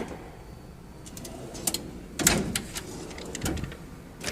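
A few scattered knocks and clicks over a faint background, the loudest a little after two seconds in.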